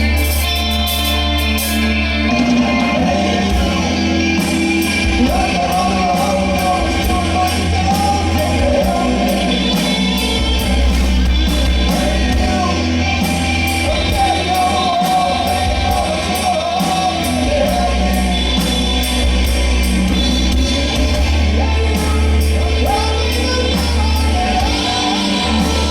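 A live rock band playing, with drums, bass and guitar, and a lead vocal that comes in about five seconds in.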